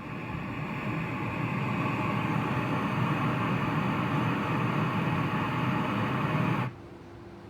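Steady static hiss from a car stereo's radio, cutting off about six and a half seconds in.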